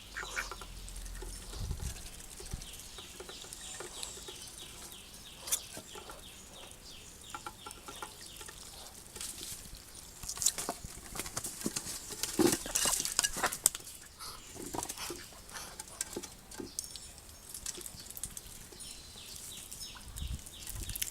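Ducks feeding, their bills pecking and dabbling at the food in a busy patter of short clicks, busiest about halfway through.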